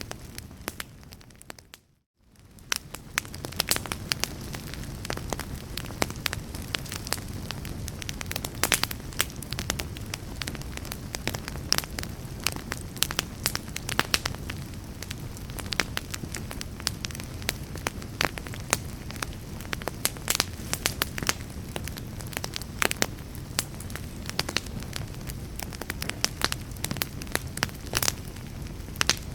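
Wood fire crackling in a fireplace: a steady low bed of burning with frequent sharp pops and snaps. The sound fades out to silence about two seconds in, then fades back up.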